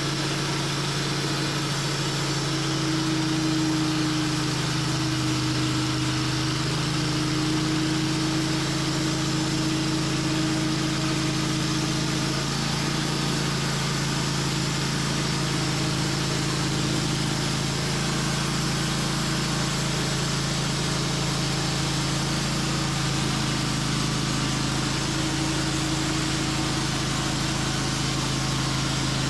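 Sawmill engine running at a steady speed, with small shifts in pitch about six seconds in and again near the end.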